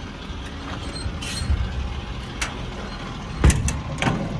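Ford 6.7 L Power Stroke V8 diesel idling with a steady low rumble, broken by a few sharp clunks, the loudest about three and a half seconds in.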